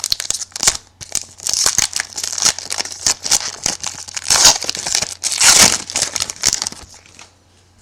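Trading-card pack wrapper crinkling and tearing as the pack and cards are handled, a dense irregular crackle that dies away near the end.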